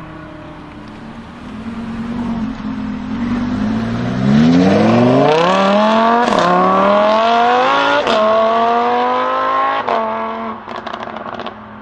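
Performance car engine accelerating hard through the gears: the note climbs, drops sharply at each of three quick upshifts, then the throttle is lifted and the exhaust crackles and pops near the end.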